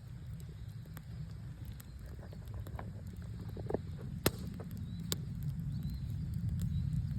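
Wood campfire crackling, with scattered sharp pops, the two loudest about four and five seconds in, over a steady low rumble.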